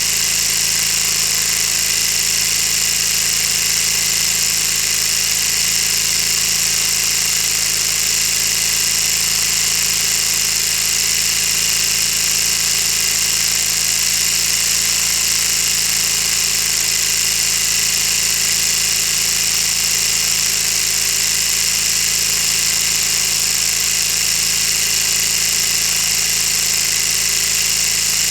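Lego V-16 engine model running steadily, its plastic pistons, crankshaft and gears making a continuous high-pitched whirring clatter.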